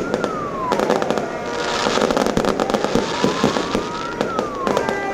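Fireworks going off in a dense run of bangs and crackles. Behind them a wailing tone slowly rises and falls, twice.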